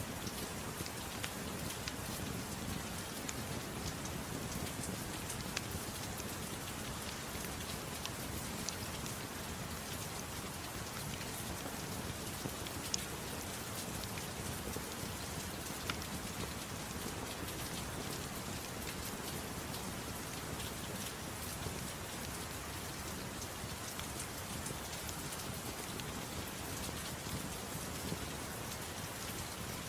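Steady soft rain, a constant even hiss, with sharp ticks scattered throughout.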